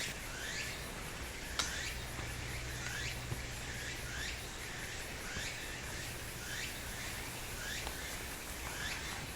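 An animal call: a short rising chirp repeated about once a second over a steady high hiss of outdoor ambience, with one sharp click about a second and a half in.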